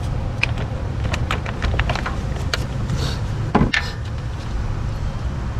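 A series of short light clicks and knocks, with one louder knock about three and a half seconds in, over a steady low rumble.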